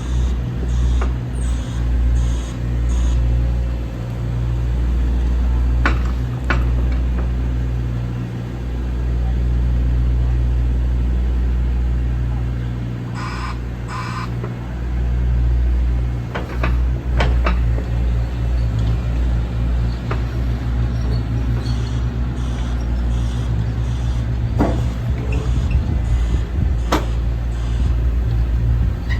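JCB 65R-1 midi excavator's diesel engine running, its note swelling and easing as the machine works, with a few sharp metallic knocks and short hisses.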